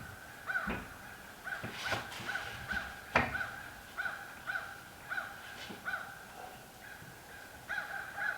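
A bird calling over and over in short, identical notes, about two a second. Two sharp knocks sound about two and three seconds in.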